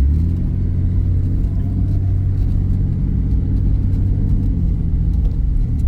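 Truck engine running steadily under load as it drives through mud, the engine pitch dipping slightly about four and a half seconds in.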